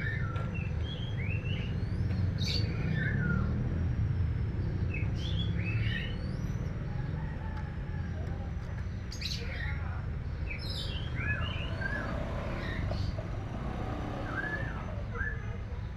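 Birds chirping in short, quick calls, clusters of rising and falling notes every second or two, over a steady low rumble.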